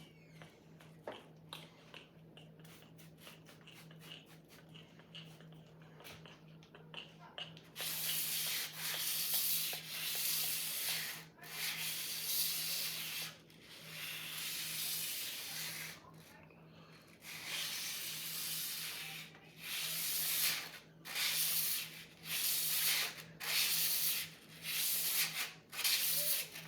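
Sword blade being sharpened: about eight seconds of faint light ticks, then a run of long scraping strokes, each lasting one to three seconds with short pauses between, over a faint steady low hum.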